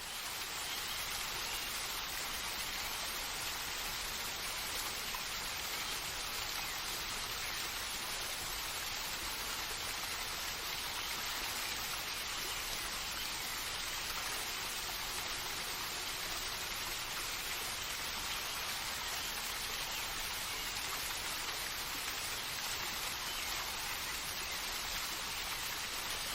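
Steady, even hiss of falling water from a nature ambience track, unchanging throughout.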